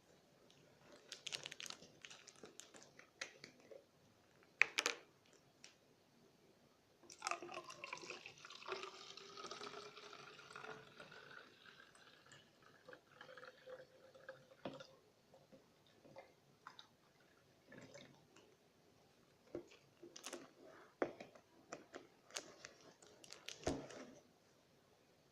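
Liquid poured into a water bottle, its pitch rising steadily as the bottle fills, for about five seconds starting around a quarter of the way in. Scattered light clicks and knocks of the bottle and cap being handled come before and after.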